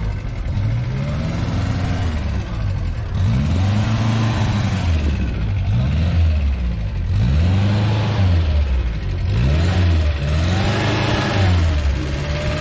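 Fiat 600's small rear-mounted four-cylinder engine revved up and down over and over, each rise and fall lasting about a second and a half.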